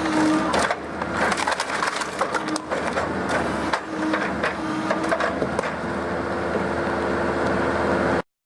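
Logs cracking and splintering as an excavator-mounted firewood processor head splits them, in dense irregular snaps over the steady hum of the machine. The sound cuts off abruptly about eight seconds in.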